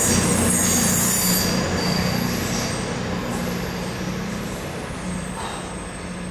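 A train running on the rails: a high-pitched wheel squeal dies away within the first second or two over a low rumble, and the whole sound slowly fades.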